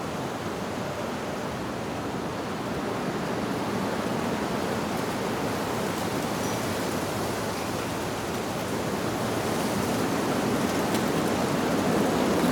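Wind rustling through leaves in a steady rush that slowly builds in strength, with a faint tinkle of wind chimes about halfway through.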